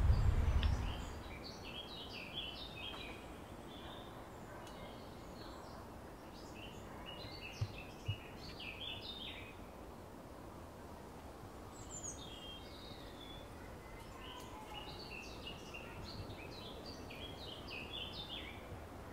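Outdoor ambience of small birds chirping in several bouts of short, high twittering calls over a steady background hiss. Two brief low thuds come about eight seconds in.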